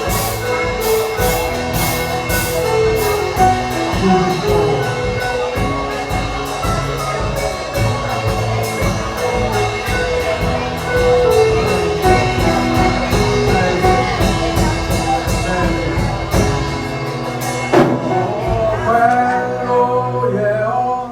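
Live gospel worship music on a drum kit, with a steady cymbal beat over held chords and a sung melody line. The drums stop near the end, leaving the chords and the singing.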